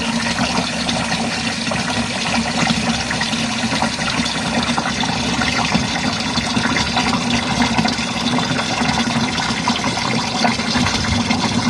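Hot water from a sink faucet gushing steadily into a portable washing machine's tub, the tub filling under fairly strong tap pressure.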